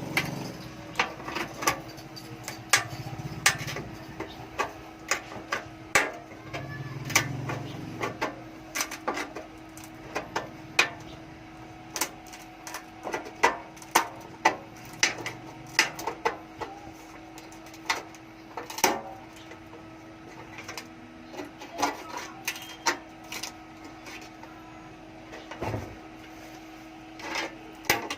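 Irregular sharp clicks and light taps of hand work, one to several a second, over a steady low hum.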